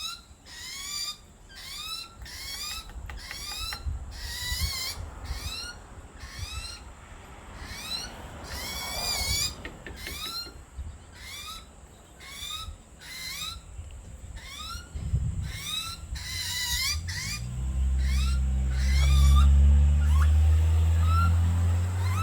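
A young bird's begging calls: short, rising squawks repeated about once or twice a second. From about three-quarters of the way in, a loud steady low rumble joins them and becomes the loudest sound.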